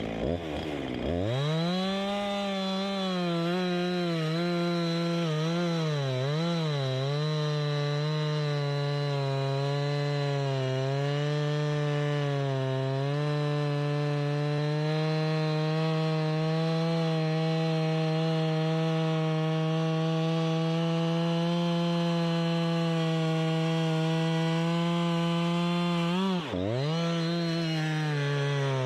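Two-stroke chainsaw at full throttle cutting through a fallen jack pine trunk. The engine pitch sags and wavers as the chain bites, then holds steady under load through a long cut. About 26 seconds in it drops sharply and revs straight back up.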